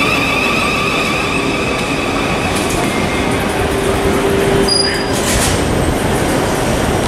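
Thameslink Class 700 electric multiple unit moving past along the platform: a steady rumble of wheels on the rails. A warbling high whine fades out in the first couple of seconds, and there is a brief sharp squeal near the five-second mark.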